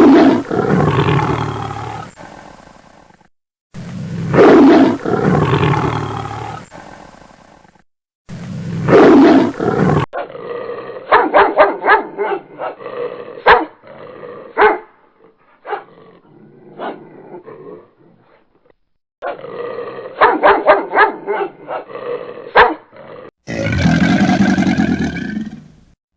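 A run of animal calls with sudden cuts: three long, loud roar-like calls, then a stretch of short, sharp calls and clicks, then another long call near the end.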